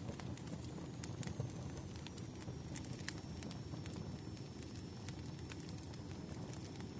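Wood fire crackling: irregular sharp pops and snaps over a steady low rumble, with a faint thin high whistle.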